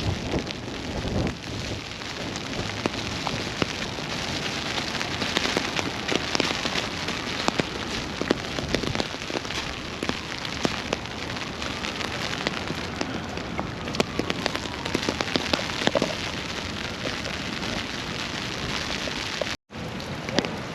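Steady rain with many drops ticking sharply close to the microphone. The sound cuts out for a moment near the end.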